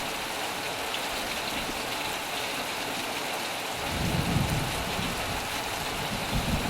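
Heavy rain pattering steadily on a metal roof. A low rumble of thunder comes in about four seconds in and swells beneath the rain.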